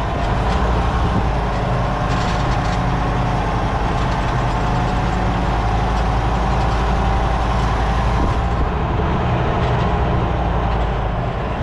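Semi truck's diesel engine running steadily while the truck reverses, heard from inside the cab, with a faint steady whine above the low rumble.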